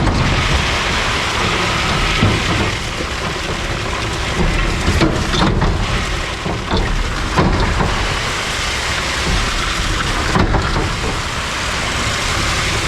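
Loose trash, Styrofoam and livestock feed pouring and crackling into a garbage truck's hopper, with the truck's engine running underneath.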